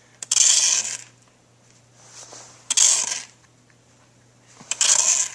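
Snow shovel scraping and scooping snow, three strokes about two seconds apart.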